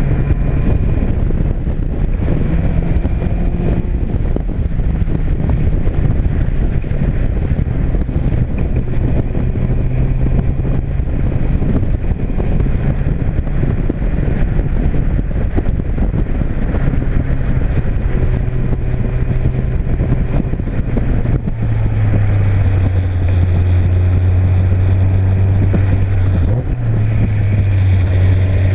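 Engine of an open-cockpit Seven-style sports car, running on a newly fitted Emerald K6 engine management unit, pulls steadily under way. Its low note shifts pitch as the car goes, with wind rushing past the open cockpit. From about 21 seconds in, the engine note turns louder and deeper.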